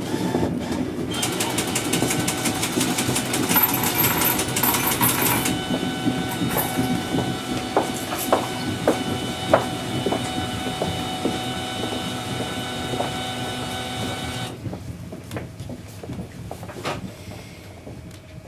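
Electric train running and slowing, heard from the cab: rail and wheel clatter, a dense rapid ticking for a few seconds, and a steady high whine with scattered sharp clicks that cuts out about fourteen and a half seconds in, the train running quieter to a near stop by the end.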